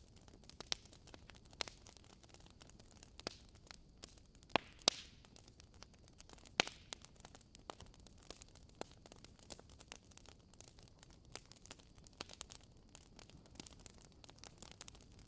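Wood fire crackling in a fireplace: irregular sharp snaps and pops from burning logs over a faint steady hiss, with a few louder pops near the middle.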